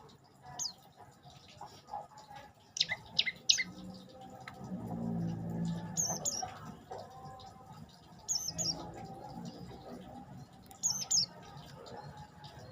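Prenjak lumut songbird giving short, sharp, high chirps in small clusters, with a quick run of several calls a few seconds in and single pairs spaced a few seconds apart after that.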